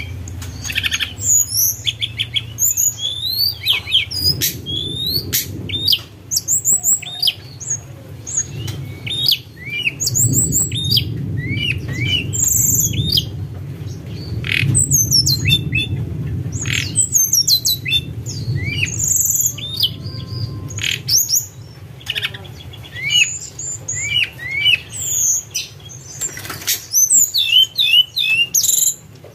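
Tledekan gunung songbird singing its fluting song: quick runs of high whistled notes sliding up and down, in short phrases with brief gaps. A steady low hum runs underneath.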